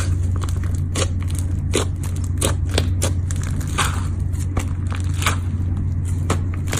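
Slime being squeezed and pressed by hand, giving irregular crackles and sharp little pops. A steady low hum runs underneath.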